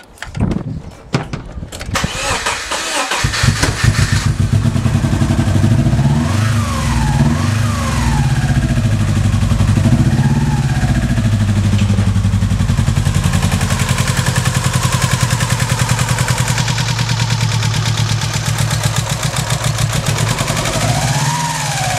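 Subaru Impreza EJ18 flat-four engine cranked by the starter, catching after about three seconds and then running with a pulsing, uneven beat. It sounds as if it is not running on all four cylinders: a misfire that new plugs and leads have not cured.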